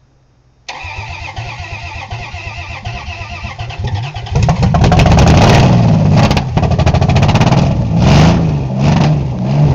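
A Dodge 3.9 V6 in a Ram 1500 being cranked by the starter for about three and a half seconds before it catches on its first start. It then runs loud, surging up and down several times as it is given gas.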